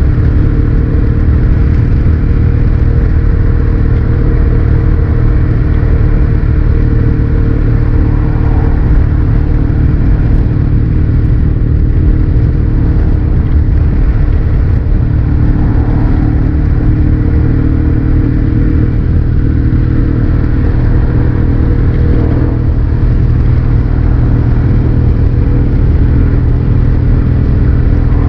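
Kawasaki W650 parallel-twin engine through a Posh Cabton-style muffler, running at a steady speed while riding, with no revving or gear changes.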